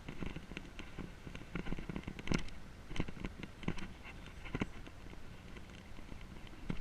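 Wind rumbling on the microphone, with irregular clicks and knocks, the loudest about two and a half seconds in.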